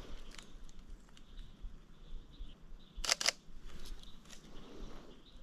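Sony A7iii's shutter firing: a quick double click about three seconds in as a photo is taken.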